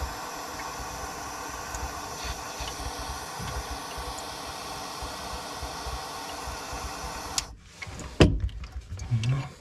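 Steady blowing of a heating tool warming the old threaded fitting of the stuck tap so that it does not crack, switched off suddenly about seven and a half seconds in. A loud knock and a few smaller clunks of metal follow.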